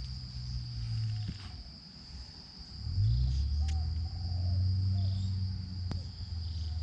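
Insects, crickets or cicadas, keep up a steady high-pitched trill. Under them runs a louder low rumbling drone that drops back about a second in and swells again, rising in pitch, about three seconds in.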